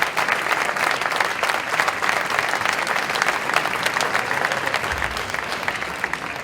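Audience applauding, with many hands clapping; the applause begins to thin and die down near the end.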